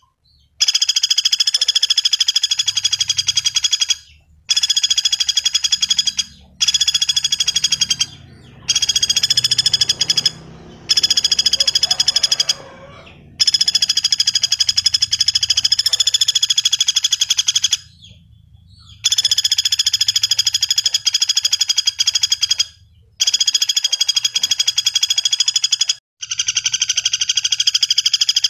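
Common flameback woodpecker giving its rapid, dry rattling trill. The notes run together in long bouts of two to four seconds, repeated again and again with brief pauses between them.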